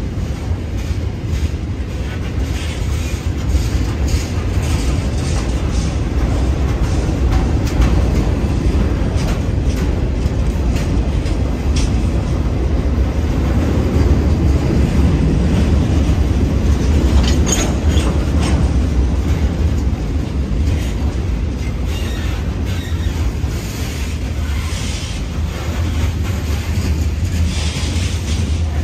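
Cars of a CSX manifest freight train rolling past: a steady low rumble of steel wheels on the rails, with scattered clicks and clanks.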